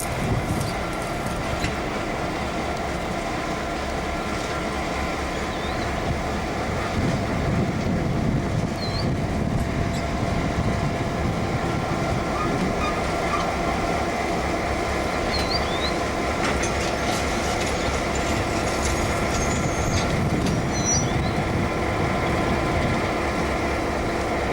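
Diesel-electric locomotive-hauled train running, with a steady engine drone over rumbling wheel and rail noise.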